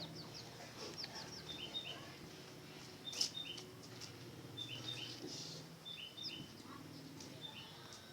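Small bird chirping a short call, repeated about every second and a half, over a faint low steady hum.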